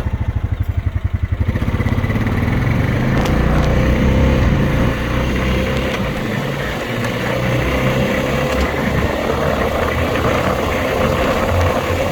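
2020 Honda Rubicon 520 ATV's single-cylinder engine running as the quad is ridden, its exhaust beat pulsing plainly for the first second or so, then settling into a steady drone with a faint whine under road noise.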